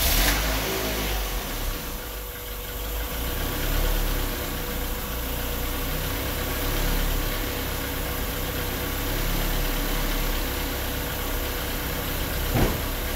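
Honda B18B1 1.8-litre DOHC four-cylinder engine idling just after being started, its level rising and falling a little. A single short click sounds near the end.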